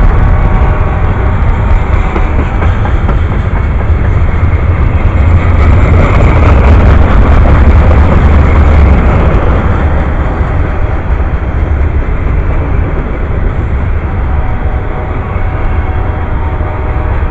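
Freight train of boxcars, tank cars and covered hoppers passing close by at speed: steel wheels running on the rails make a loud, steady noise with a deep rumble, easing a little near the end.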